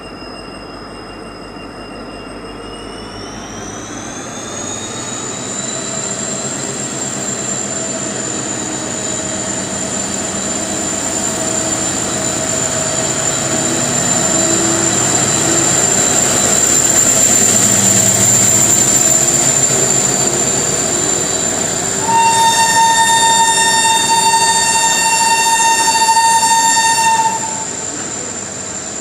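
Indian Railways passenger train pulling out of a station: a high whine rising in pitch in the first few seconds, then the rumble of the train passing, growing louder. About two-thirds of the way through, the horn sounds one long blast of about five seconds and cuts off suddenly.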